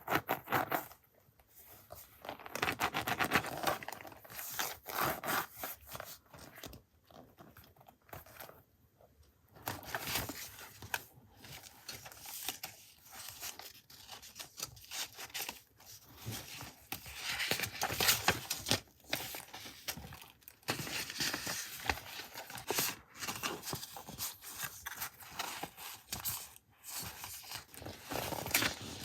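Paper and packaging handled up close: rustling, crinkling and tearing in uneven bursts with short pauses between them.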